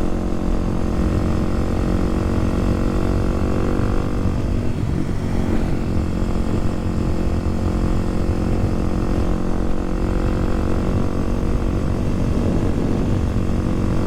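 Kawasaki KLX300SM's single-cylinder four-stroke engine running while riding, with wind noise. About four seconds in, the engine note drops and loses its clear pitch, then runs on at a rougher, less even note.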